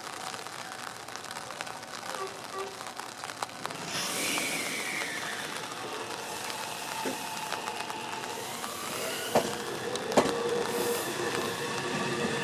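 Meitetsu electric train moving along the platform track, getting louder. A whine falls in pitch about four seconds in, squealing wheel tones follow, and wheels knock over rail joints from about nine seconds.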